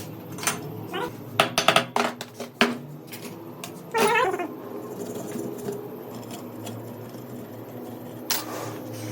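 A run of sharp clicks and knocks, like tools on metal, then a short wavering high-pitched cry about four seconds in.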